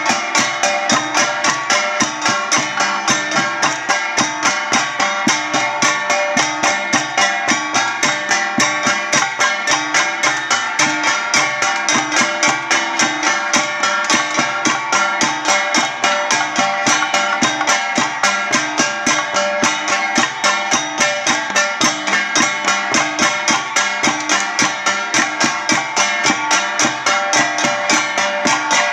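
Ifugao traditional percussion music, struck gongs with drum, played in a steady, even beat of rapid strikes over ringing metallic tones that carries on without a break.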